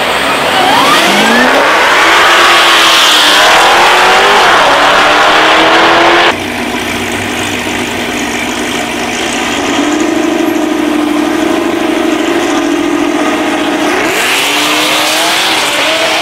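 Drag-race car engines at full throttle. The engine pitch climbs as a car accelerates down the strip, and the sound cuts off abruptly about six seconds in. A steadier engine note follows, and near the end another car's pitch rises as it accelerates.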